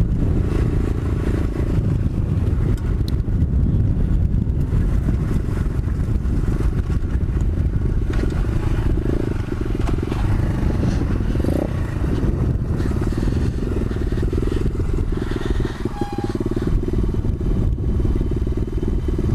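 A 125cc pit bike's single-cylinder engine running steadily while it is ridden over loose gravel.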